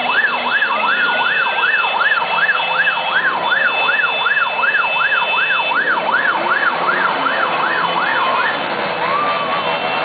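Siren sounding a fast yelp, its pitch rising and falling a little over twice a second. The yelp stops about eight and a half seconds in, and two slower single wails follow.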